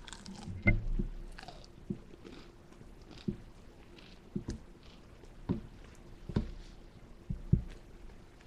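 A person chewing a mouthful of crispy hand-breaded fried chicken sandwich close to the microphone: irregular chews with crackles of the breading, about one a second, the loudest about a second in and near the end.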